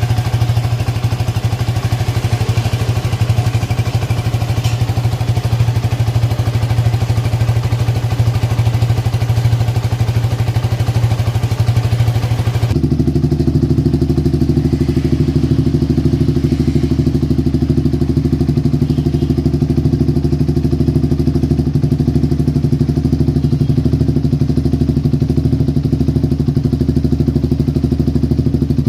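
Yamaha Vixion's single-cylinder four-stroke engine running steadily through an R9 Alpha aftermarket exhaust, with no revving. About 13 seconds in, the sound changes abruptly and loses most of its high hiss.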